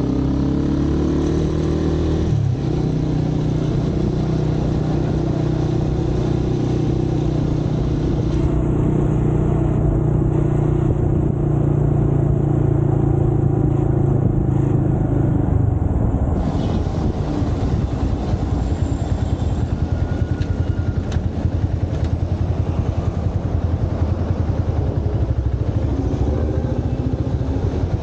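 Motorcycle engine heard from the rider's seat: it revs and shifts up in the first couple of seconds, then runs at a steady cruise. About halfway through it drops to a choppy, pulsing idle, and it starts to rise again near the end.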